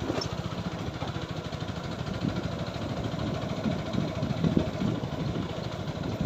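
TVS Apache 4V motorcycle's single-cylinder engine running steadily, a low rapid pulsing thrum with little change.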